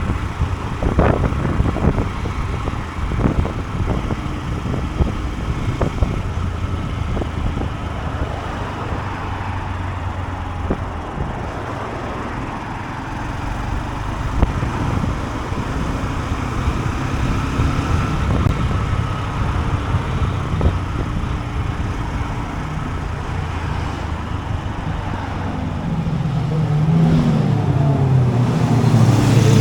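Honda CB125F's single-cylinder four-stroke engine running on the move, with road and wind noise. Near the end the engine note rises in pitch as the bike accelerates.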